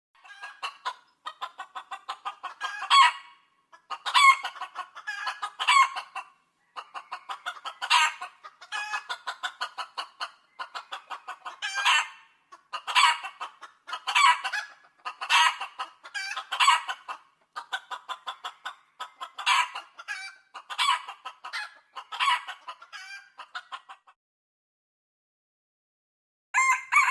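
Chicken clucking in rapid runs of short clucks, with louder cackles about every second, stopping a few seconds before the end.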